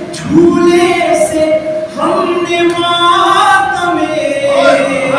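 Unaccompanied voices singing a Shia devotional lament (peshkhwani), holding long, gliding notes in phrases that break about every second or two, with two voice parts at once.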